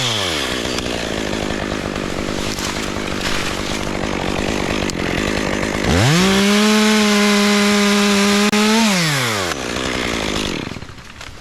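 Two-stroke chainsaw running: it comes off a throttle blip into a lower, rough-running stretch, then is opened up to a steady high-speed scream for about three seconds before the revs fall back to idle and the sound drops away near the end.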